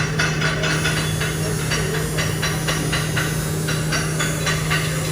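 A machine running steadily: a constant hum with short regular ticks about three a second.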